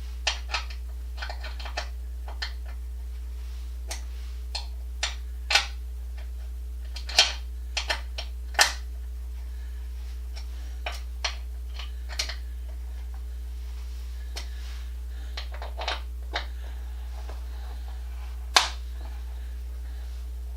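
Irregular clicks and knocks of parts and tools being handled while an exercise bike is assembled, with louder knocks about a third of the way in and again near the end, over a steady low hum.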